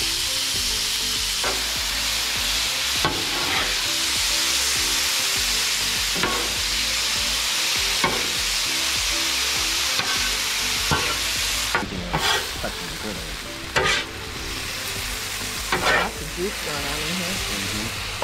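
Chicken breast pieces sizzling in oil on a Blackstone flat-top griddle, a steady frying hiss that eases a little about two-thirds of the way through. A steel spatula clacks and scrapes against the griddle top every few seconds, more often near the end as the chicken is pushed together.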